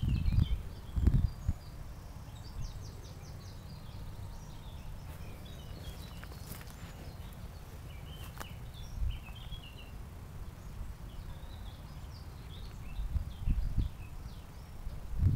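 Small birds chirping and singing in short phrases over a steady low rumble. There are a few louder low thumps in the first second and a half and again near the end.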